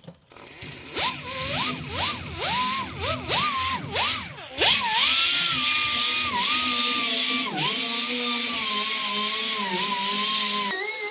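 Handheld power tool triggered in about six short spurts, each spinning up, then run continuously with brief dips in speed. Its pitch steps up near the end.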